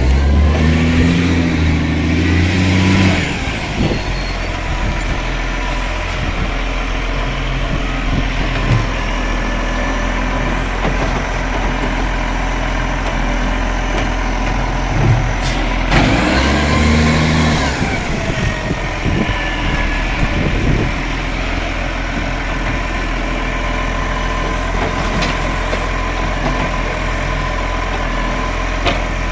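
Garbage truck engine running steadily. Twice, at the start and again about halfway through, it grows louder for about three seconds as the engine revs, with a whine rising and falling over it.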